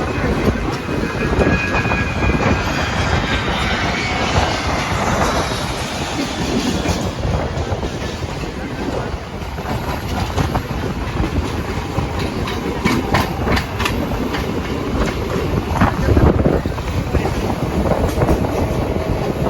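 Mumbai suburban local train running on the tracks: a steady rumble of wheels on rail with clickety-clack from the rail joints. A thin high wheel squeal sounds a second or two in, and a burst of sharper clatter comes about thirteen seconds in.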